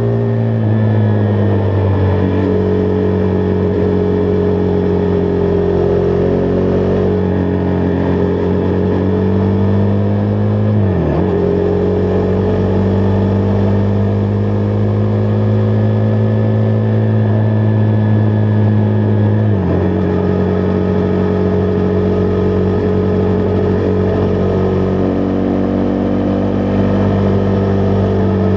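Husqvarna Vitpilen 401's single-cylinder engine running under way at a steady road speed. About eleven seconds in the engine note dips sharply and recovers, and near the twenty-second mark its pitch steps down, as at a gear change.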